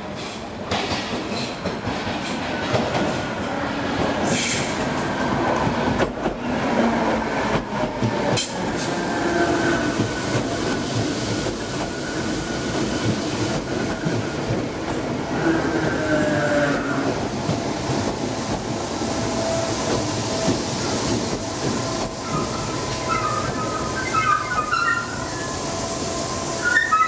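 A train running on the rails with steady wheel and track noise and a few sharp clicks, its wheels squealing in high tones near the end.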